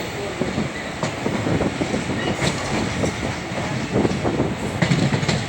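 ICF passenger coach running along the track: a steady rumble of wheels on rail, with irregular clattering knocks as the wheels cross rail joints.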